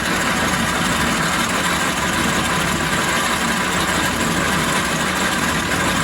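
1944 Logan 210 metal lathe running steadily at about 375 RPM, its flat-belt drive fed by a variable frequency drive.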